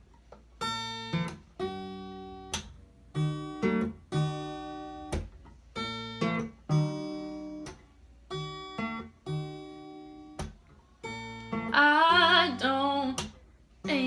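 Acoustic guitar playing a slow intro, one chord struck about every second and left to ring. A singing voice comes in near the end.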